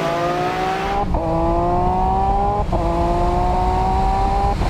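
Twin-turbo car engine accelerating hard, its pitch climbing through the gears, with two quick sequential-gearbox upshifts about a second in and again near the middle, then lifting off just before the end.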